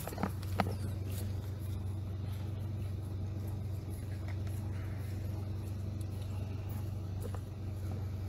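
Steady low hum of an idling police car's engine, with a couple of light clicks in the first second.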